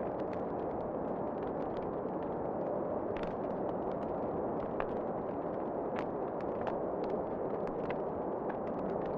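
Wood fire crackling in a fireplace, with irregular sharp pops and snaps over a steady rush of wind.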